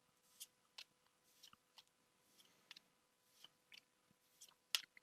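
Pokémon trading cards being flicked through by hand. About a dozen faint, crisp card flicks come at irregular spacing, and one is louder near the end.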